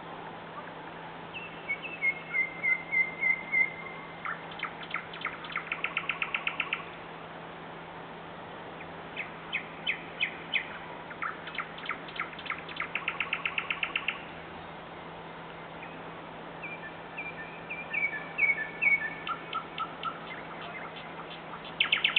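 Nightingale singing: phrases of rapid repeated notes and trills, each a second or three long, separated by short pauses.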